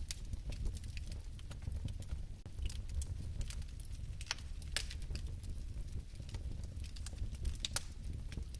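Fire crackling: irregular sharp pops and ticks, a few each second, over a low steady rumble of the flame.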